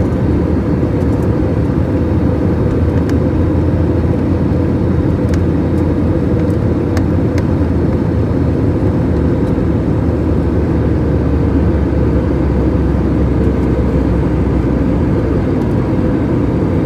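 Aeroplane cabin noise in flight: the engines and rushing air make a steady, even drone, with a faint held tone on top and a few faint clicks.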